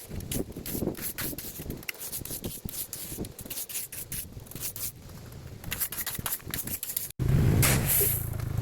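Irregular gravel scraping and crunching with many small clicks. After a sudden cut about seven seconds in, the Bombardier Quest 650 ATV's engine is heard running, louder and steady.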